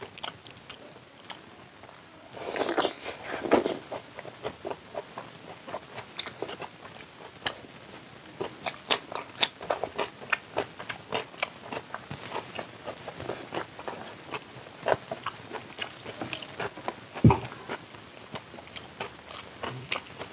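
Close-miked wet chewing and lip smacks of a man eating chow mein and egg curry by hand. There is a louder, longer stretch of mouth noise about two seconds in, and one sharp knock near the end.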